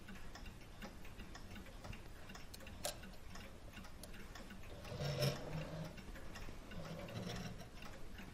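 A mechanical clock ticking steadily, with a sharp click about three seconds in and louder handling sounds on the bench about five seconds in and again near seven seconds.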